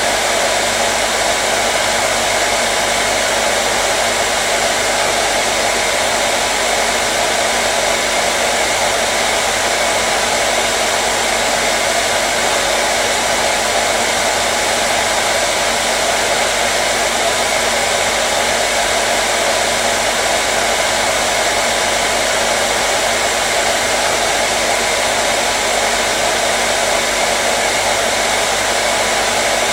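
Hair dryer running steadily: an even, unbroken blowing whoosh with a faint steady motor hum under it.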